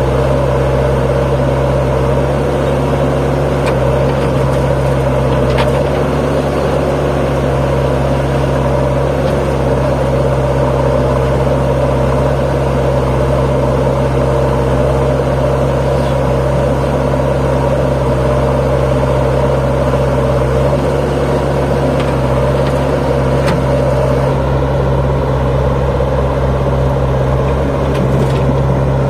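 Force Sanman 6000's three-cylinder diesel tractor engine running steadily at constant speed under load, pulling a fully loaded trolley.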